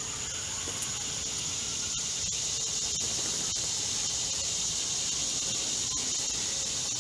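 A steady high-pitched hiss that runs on without a break.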